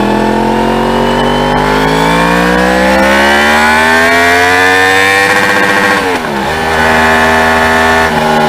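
Yamaha MT-10's crossplane inline-four running through an SP Engineering carbon-fibre slip-on exhaust with the catalyst still fitted, revs climbing steadily under acceleration. About six seconds in the pitch dips sharply at a gear change, then holds fairly steady, with another change near the end.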